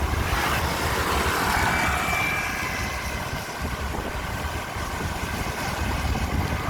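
Wind rumbling on the microphone while moving through traffic, with the noise of a passing vehicle swelling and fading in the first few seconds.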